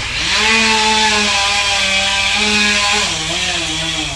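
Chainsaw revving up and running at high speed, its pitch sagging briefly about three seconds in and again near the end before climbing back.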